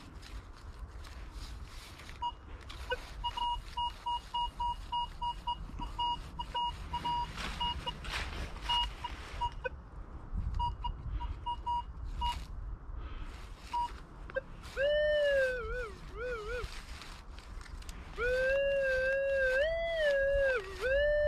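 Metal detector's electronic audio: a run of short, high beeps, then from about 15 s a wavering tone that slides up and down in pitch as the coil passes over a buried target, held almost continuously from about 18 s. Clicks and rustles from the coil sweeping through ground cover run underneath.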